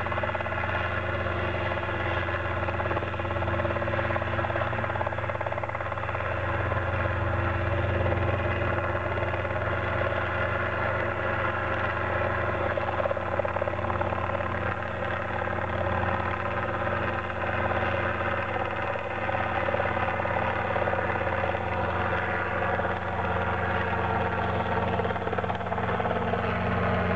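Robinson R22 helicopter's four-cylinder Lycoming piston engine and rotor running steadily, a dense drone of many steady tones, during an autorotation. Near the end the pitch of some tones shifts.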